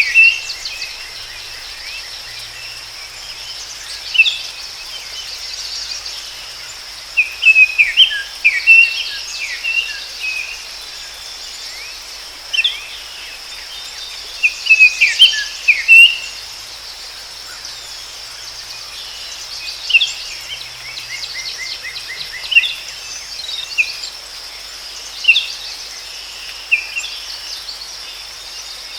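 Forest birds singing in short chirping phrases every few seconds over a steady high-pitched drone of insects.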